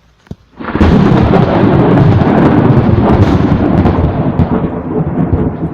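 Very close thunder: a sudden, very loud crack just under a second in, running straight into a heavy, continuous rumble, from a lightning strike within about 200 feet.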